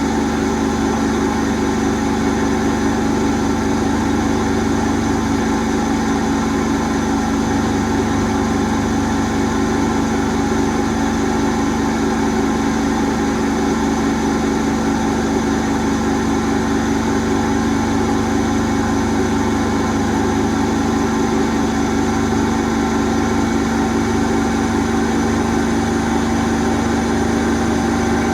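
Asko W6098X washing machine in its final spin, limited to 1600 rpm, with the drum spinning at speed. It makes a steady machine hum with several constant tones and no change in pitch.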